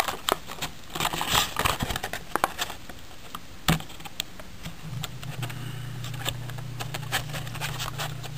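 Hot Wheels blister pack being torn and pried open: irregular plastic crinkling and crackling with scattered clicks, and one sharp snap about four seconds in.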